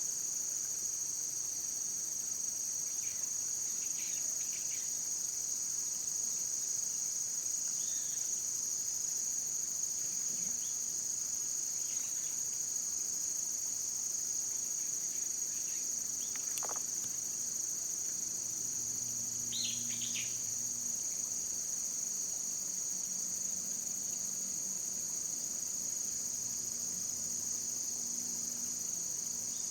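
Steady, high-pitched chorus of insects. A few short bird chirps break in now and then.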